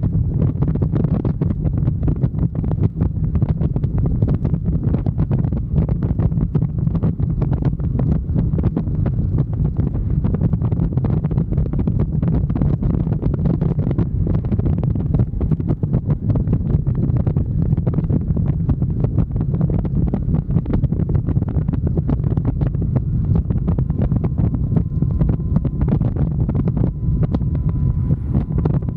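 Wind buffeting the microphone on a moving motorcycle, a loud, steady low rumble with constant irregular gusting throughout.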